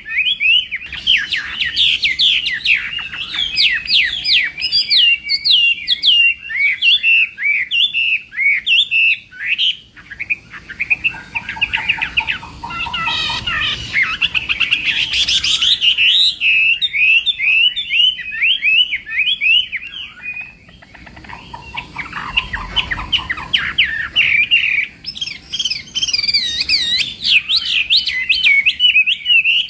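Chinese hwamei (họa mi) singing a long, loud song of rapid, repeated sweeping whistled notes. It eases off briefly twice, each time coming back with lower notes before resuming the fast high phrases.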